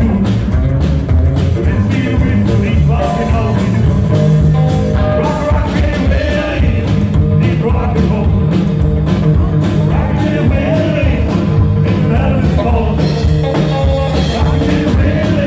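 Live rockabilly band playing an up-tempo rock and roll number, with a steady drum beat running under the guitars and bass.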